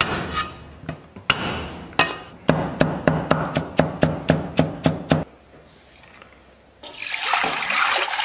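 Cleaver knocking on a chopping board while mincing garlic: a few single heavy blows, then fast chopping at about four strokes a second that stops about five seconds in. Near the end comes a loud rush of water, rising in pitch as it fills a pot.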